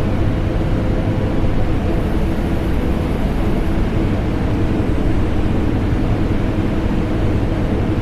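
Vacuum cleaner and air conditioner running together without change: a steady, deep rush of air with a low hum.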